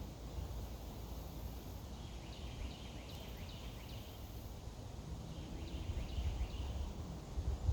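Two bursts of rapid, chattering bird calls, the first about two seconds in and the second about five seconds in, over a steady low outdoor rumble. A faint high insect buzz comes and goes.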